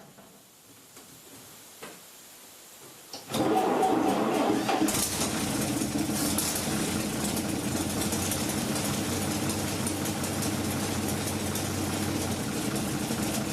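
Starter cranking the M35 truck's REO OA-331 gasoline inline six, starting suddenly about three seconds in and turning over steadily without the engine catching. It is cranking briskly on freshly charged batteries, which rules the batteries out as the cause; the no-start is left to fuel.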